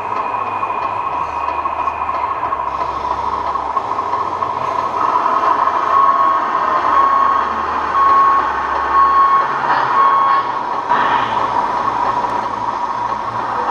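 1:14 scale RC truck running with a steady whine, while reversing beeps sound about five times, roughly once a second, starting about six seconds in.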